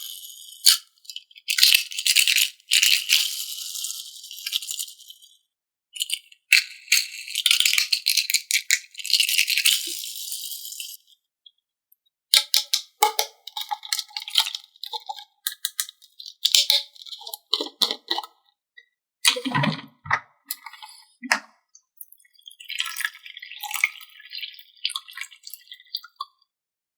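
Plastic toy packaging and parts being handled during unboxing: two long spells of crinkling and rustling, then irregular clicks and knocks of plastic pieces, with a couple of heavier thumps about two-thirds of the way through.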